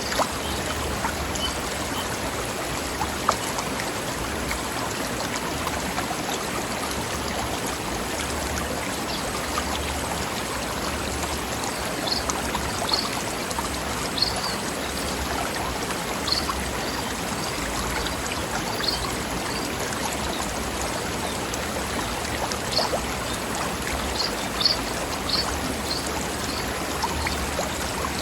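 Small forest stream flowing over rocks: a steady rush of running water, with occasional short, brighter splashes on top.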